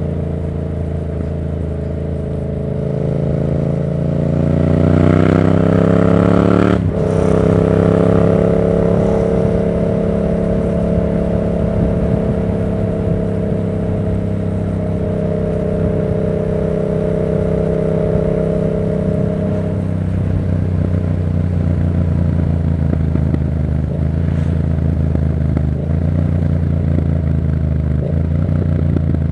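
Yamaha MT-07's 689 cc parallel-twin engine running through a Black Widow aftermarket exhaust under way. It accelerates with rising revs for a few seconds, and the note breaks off sharply about seven seconds in. It then holds a steady pace and eases down to a lower steady note around twenty seconds in.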